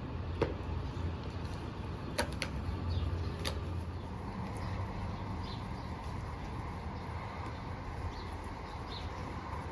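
Steady outdoor background noise with a few sharp knocks, the loudest about half a second in, and brief bird chirps now and then.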